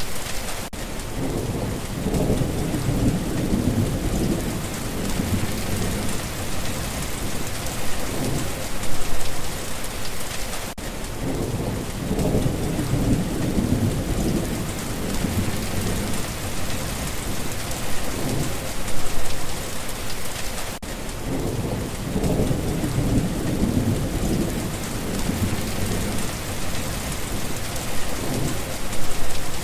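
Steady rain with low rolling thunder that swells about every ten seconds. The same stretch of rain and thunder repeats on a loop.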